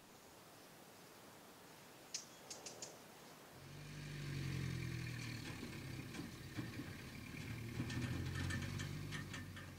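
A few faint ticks, then about three and a half seconds in a motor vehicle's engine comes in and runs steadily with a low hum.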